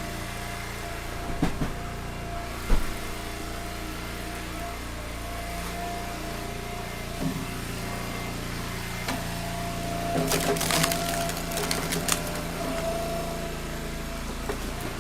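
Engine-driven log splitter running steadily while firewood rounds are split, with a couple of knocks early on and a burst of wood cracking and splintering about ten to twelve seconds in.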